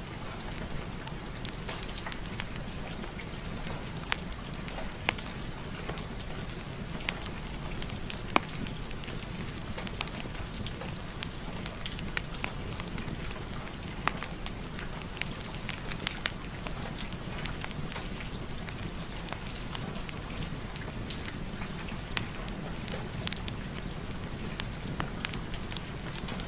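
Steady rain mixed with a crackling wood fire: an even hiss with sharp, irregular pops and snaps scattered throughout.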